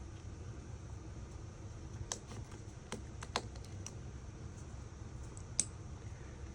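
A few light, scattered clicks and taps of small tools and parts while an iPhone 5 is being disassembled, over a steady low hum; the sharpest click comes a little over five seconds in.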